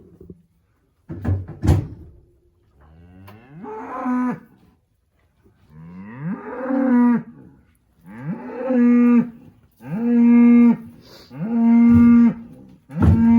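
A cow mooing over and over: about six long moos, each sliding up in pitch and then holding a steady note, growing louder as they go. A short knock comes about a second in, before the first moo.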